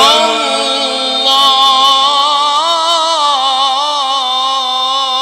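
Male Quran reciter chanting in mujawwad style, holding one long ornamented note on 'shā'' of 'in shā' Allāh' with wavering melismatic turns.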